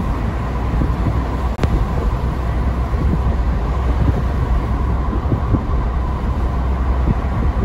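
Steady low rumble and noise of a moving vehicle, with a faint steady hum and a single short click about a second and a half in.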